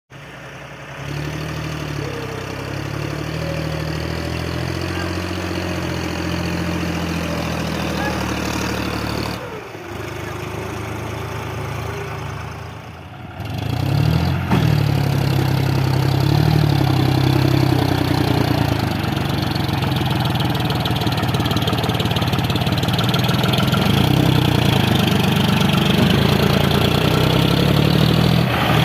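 Tractor engine running, its pitch rising and falling, with abrupt breaks about nine and thirteen seconds in, after which it runs louder.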